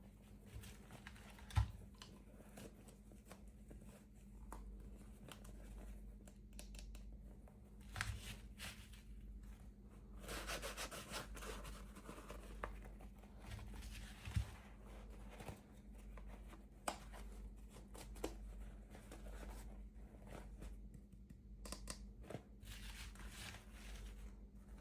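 Toy packaging being handled and opened: crinkling and tearing of wrapping, with a few sharp clicks and taps, the loudest about a second and a half in, and a longer rustle around the middle.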